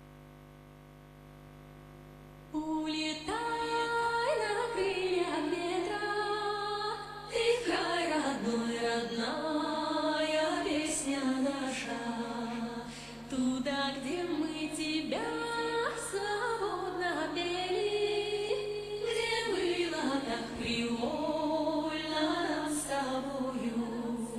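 A slow, flowing song melody sung by a female voice, starting about two and a half seconds in over a steady low hum.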